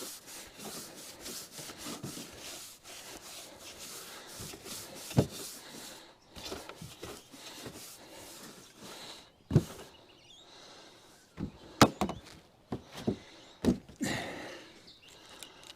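Hands-on handling noise: scraping and rustling, broken by several sharp clicks and knocks, from quickly wiring a solar panel in.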